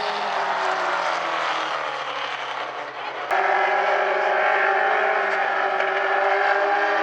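Several oval-track race car engines slowing down just after the checkered flag, their pitch falling. About three seconds in there is an abrupt cut to a field of cars running steadily at pace speed.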